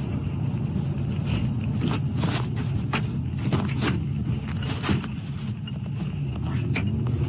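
Steady low engine and road rumble inside a moving patrol car's cabin, with a few short clicks and scrapes around the middle.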